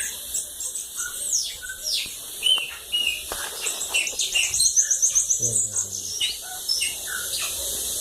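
Bananaquit (sibite) singing its "cachorro louco" song: many short, high, thin notes sweeping downward, with a fast trill of repeated notes about halfway through, over a steady high hiss.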